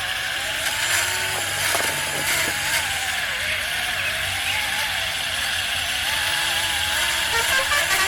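Electric drive motors and gearboxes of radio-controlled model construction machines whining, the pitch wavering up and down as they are throttled. A few light knocks come about one to three seconds in.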